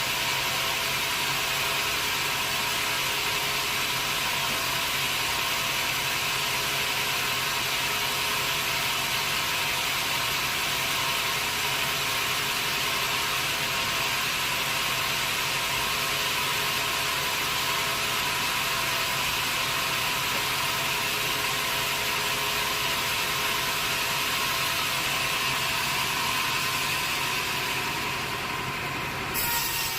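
Sawmill machinery running steadily: a constant mechanical hum under a loud hiss. Near the end the hiss dips briefly, then returns abruptly.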